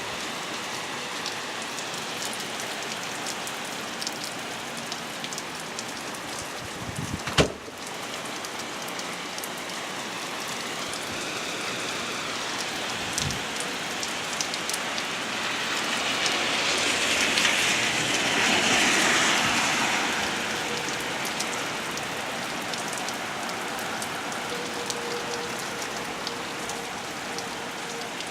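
Steady heavy rain pattering. About a quarter of the way in there is one sharp knock, and past the middle a louder rushing swell builds and fades over a few seconds.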